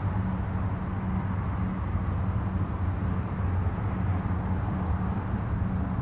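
Distant highway traffic: a steady, continuous low rumble of many vehicles blended together, with no single car standing out.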